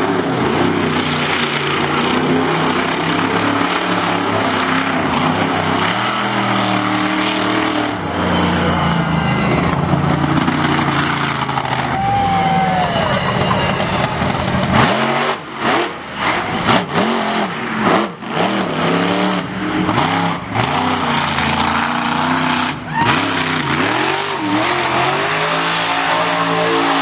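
Monster truck's engine revving hard, rising and falling, then blipped on and off in quick, choppy bursts through the second half.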